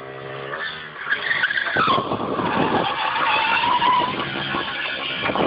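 Motorcycle running, then a loud high-pitched squealing whine that falls in pitch about two seconds in and holds steady for a couple of seconds.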